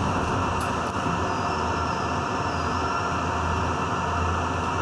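R62A subway train running steadily, heard from inside the car at the front window: an even rumble with a constant low hum.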